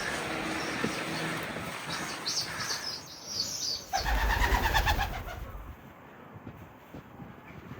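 Birds calling: a few short chirps, then a longer call that rises and falls about four seconds in, over steady outdoor background noise with a low rumble under the longer call.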